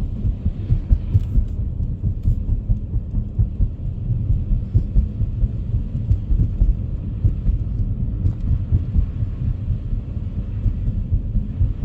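Low, steady rumble of a car driving, made up of road and engine noise heard from inside the cabin.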